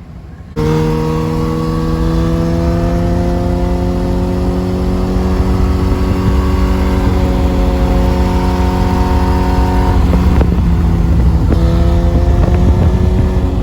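Suzuki GSX-R1000 inline-four sport bike engine running under way, its note climbing slowly and steadily. About ten seconds in the note drops, then climbs again.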